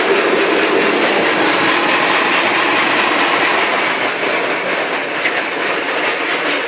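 Kärcher automatic car wash working on the car, a loud, steady rushing noise of spray and machinery heard from inside the car, easing slightly near the end.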